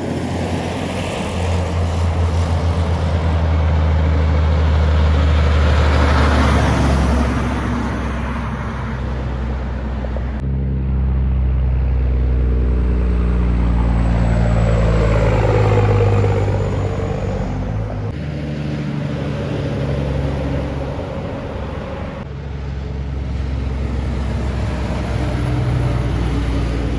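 Kenworth trucks driving past, their diesel engines droning low, each swelling louder as it goes by and then fading. The sound cuts off abruptly and changes three times, as one pass gives way to the next.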